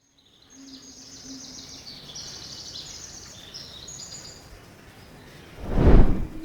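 Outdoor ambience of rapid, high-pitched chirping trills, repeated over the first few seconds, then a loud rushing whoosh that swells and fades near the end.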